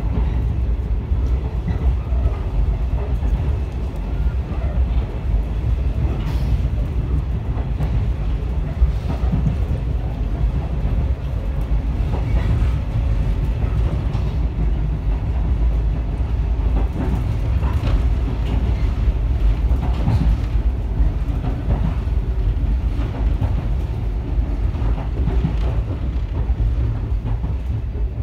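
Echizen Railway MC7001-series electric railcar, a former JR 119-series car, running along the line, heard from inside the car: a steady low rumble with scattered clicks of the wheels over the track.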